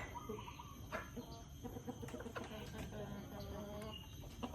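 Chickens clucking softly in short low calls, with scattered sharp ticks.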